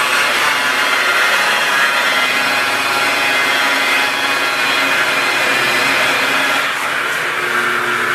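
Electric car buffer (polisher) running steadily with its pad working over the paint: a constant motor whine over a rushing rub, dipping slightly in level about seven seconds in.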